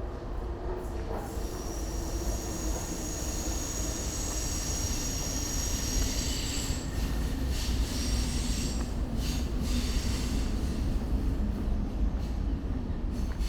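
Passing train with its wheels squealing in high, steady tones for several seconds, over a low rumble that slowly grows louder.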